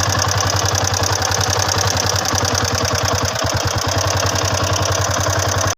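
Yamaha Sniper 150's single-cylinder four-stroke engine idling steadily with an even, fast pulse, run for a check on whether it still sounds healthy. It cuts off abruptly at the very end.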